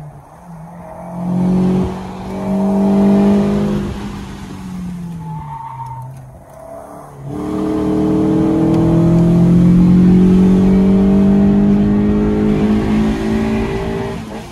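Fiat Tipo's 16-valve engine revving up under hard acceleration twice: a short pull about a second in that falls away near four seconds, then a long, steadily climbing pull from about seven seconds in.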